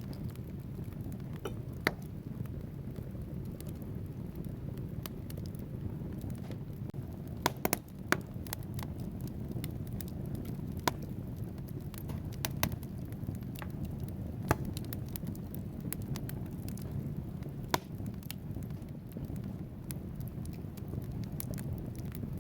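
Wood fire burning in a fireplace: a steady low rumble of flames with logs crackling and popping irregularly, a few sharper pops standing out, among them two close together about eight seconds in.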